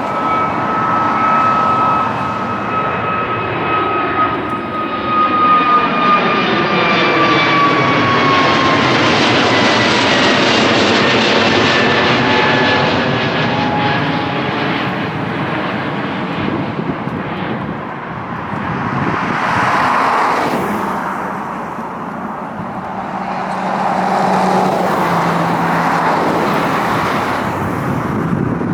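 Widebody jet airliner climbing out low overhead just after takeoff: loud jet engine noise with a high whine that falls in pitch as it passes, loudest about ten seconds in. A lower rumble follows as it moves away.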